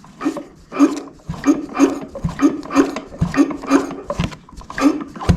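A dog barking repeatedly, about two to three short barks a second.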